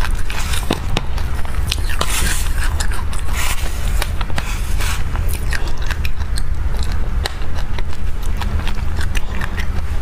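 Chewing of a mouthful of dry black sesame seeds mixed with passion fruit pulp, a dense run of sharp crunchy clicks, with a spoon scraping and scooping through the seeds in the bowl. A steady low hum runs underneath.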